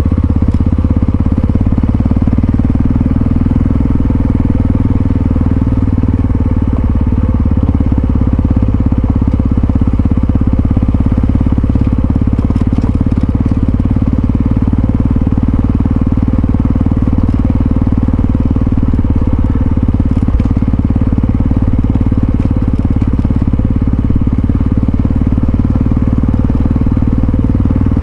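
Yamaha XT660Z Ténéré's single-cylinder engine running at a steady pace while riding, with no clear revving up or down.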